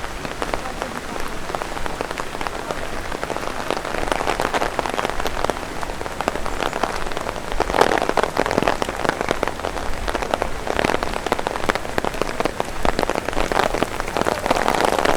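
Steady rain with dense, close tapping of raindrops on an umbrella overhead, many sharp individual drops over a constant patter.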